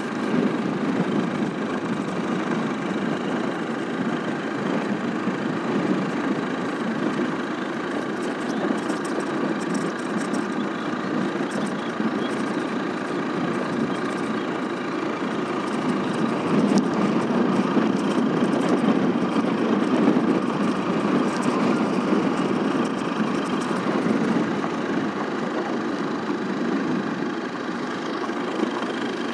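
A vehicle engine running steadily and continuously, growing a little louder for a few seconds past the middle.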